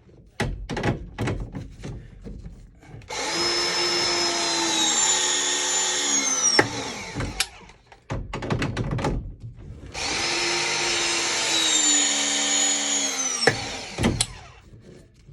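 Battery ProPress tool pressing two copper fittings: each press is a motor run of about three and a half seconds whose pitch falls as the jaws close under load, ending in a sharp click as it releases. Knocks and clanks of handling come before and between the two presses.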